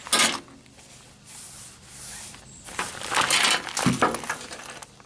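Fishing vest being handled: its fabric rustling and rubbing in a few bursts, the loudest right at the start and another about three seconds in.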